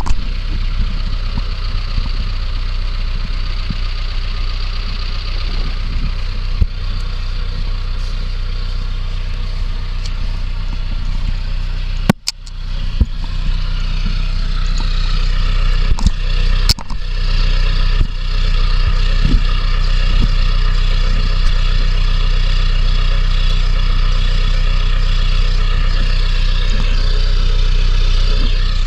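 Vehicle engine running steadily. About twelve seconds in the sound drops out briefly, then comes back and runs louder.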